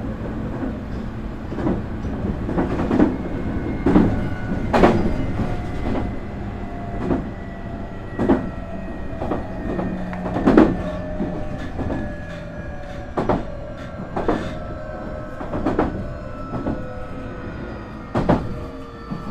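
Nankai 8300 series motor car heard from inside: the Hitachi IGBT VVVF inverter and Toyo Denki totally enclosed induction motors whine in several tones that fall steadily in pitch as the train slows under braking. Over the running rumble, wheels knock over rail joints about once a second.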